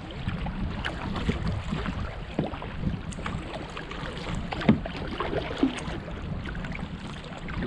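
Kayak on the move on a river: water washing around the hull with a few short paddle splashes, and wind rumbling on the action-camera microphone.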